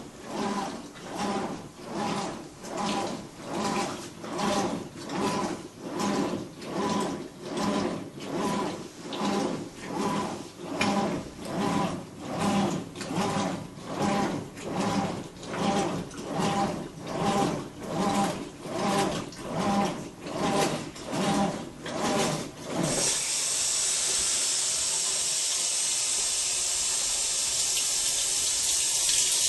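Whirlpool Cabrio top-load washer's motor humming in regular pulses, about one a second. This is the loud noise the owner asks might not be normal. About 23 seconds in the pulsing stops and water starts rushing steadily into the tub.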